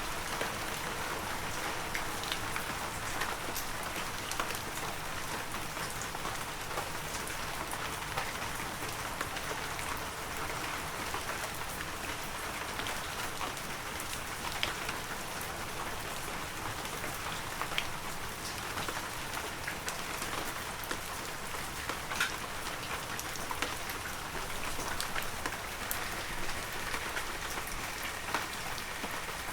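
Heavy rain falling steadily on the forest, a dense hiss with sharp drops pattering throughout.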